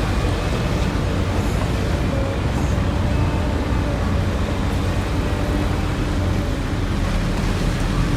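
Heavy diesel mining machinery running: a steady, dense low engine rumble from the excavators and haul trucks at work.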